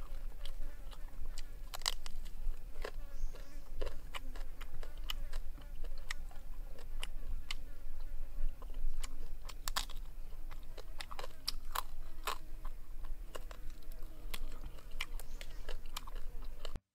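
Close-miked mouth sounds of eating grilled quail: irregular crunches, bites and wet chewing clicks, over a low steady hum.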